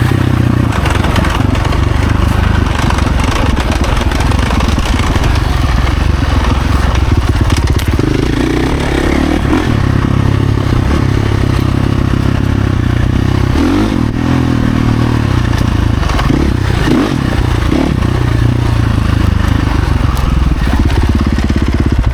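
Husqvarna FC450 dirt bike's single-cylinder four-stroke engine running hard on a trail ride, its pitch rising and falling repeatedly with the throttle.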